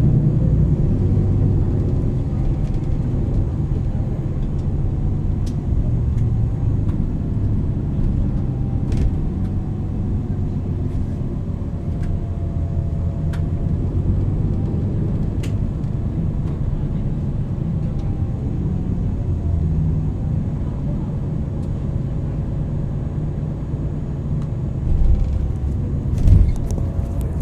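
MAN NL 323 Euro 6 city bus with a ZF EcoLife automatic gearbox running: a steady low engine rumble with a faint whine that slides up and down in pitch. There are a few sharp clicks, and a couple of louder knocks near the end.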